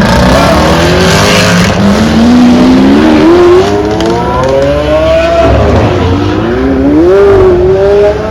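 A car's engine under hard acceleration pulling away, its pitch climbing steadily through a gear. About five and a half seconds in it drops suddenly at a gear change, then climbs again.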